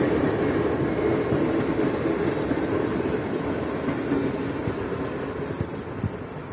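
Intercity night passenger train running by on the track, a steady rumble of wheels and carriages that fades away as it recedes, with a few knocks near the end.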